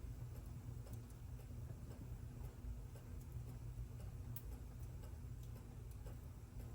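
Clock ticking over the crackle of a wood fire in a fireplace, with a faint low rumble underneath and scattered sharp clicks.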